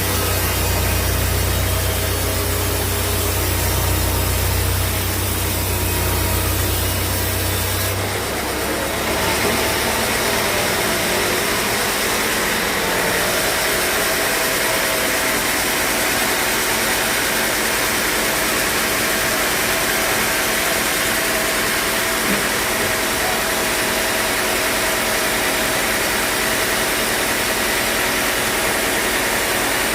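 Sawmill machinery running steadily, with an engine-like mechanical noise. A low drone drops out about eight to ten seconds in, while the higher mechanical noise carries on.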